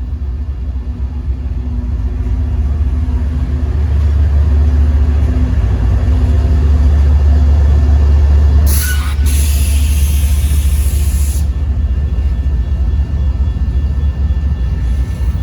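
Freight train passing at close range, its GE diesel locomotives making a deep rumble that builds over the first several seconds. About nine seconds in a loud hiss cuts in for about three seconds, then stops suddenly.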